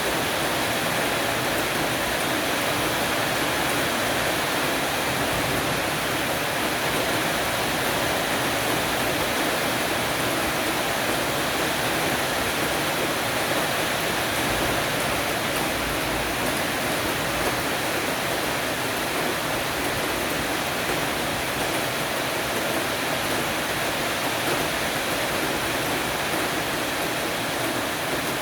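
Heavy rain shower falling steadily on a porch roof's eaves, a dense, even hiss of rain.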